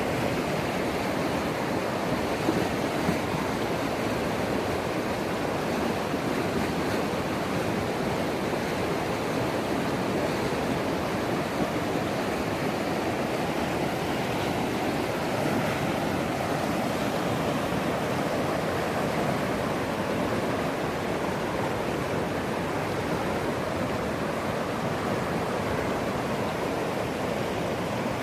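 Storm-swollen mountain river rushing: a steady, unbroken wash of fast-moving water.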